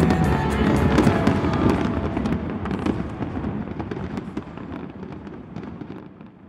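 Fireworks popping and crackling in rapid succession over background music, the whole mix fading out steadily toward the end.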